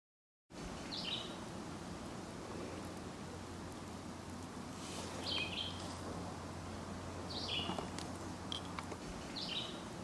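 Woodland ambience: a bird repeats a short, high call about four times, a couple of seconds apart, over a steady low hiss. The sound drops out briefly at the very start.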